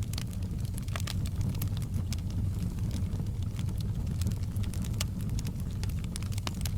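Wood fire burning in a fireplace: a steady low roar of flames with irregular sharp crackles and pops scattered throughout.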